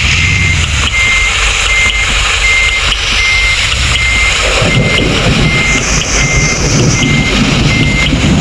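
Truck reversing alarm beeping steadily at one pitch, about three beeps every two seconds, over the truck's engine running, which gets louder about halfway through.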